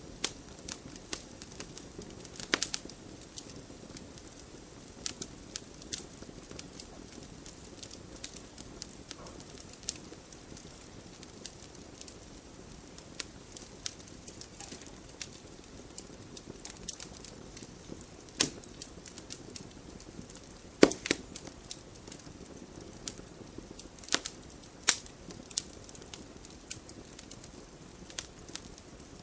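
Wood fire burning in a fireplace: a low steady rustle of flames with irregular crackles and sharp pops from the burning logs, the loudest pops near the middle and about three quarters of the way in.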